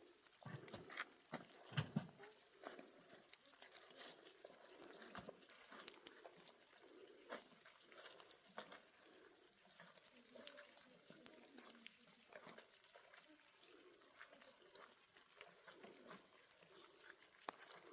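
Near silence, with scattered faint clicks and light knocks; a few louder knocks come about one to two seconds in.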